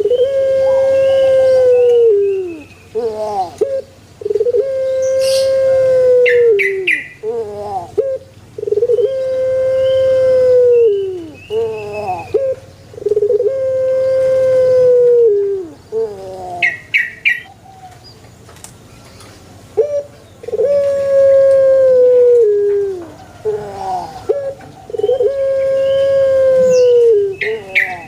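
A male puter dove (ringneck or Barbary dove) cooing. It gives six long, steady coos, each about two to three seconds long and falling away at the end, and each opened by a few quick short notes. There is a pause of a few seconds about two-thirds of the way through.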